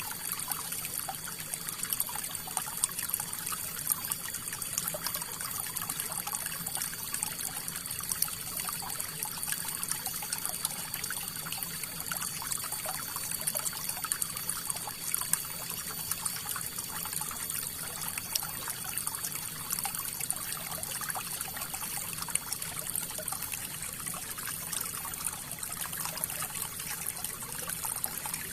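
River water flowing and trickling over stones, a steady splashing rush with many small bright splashes.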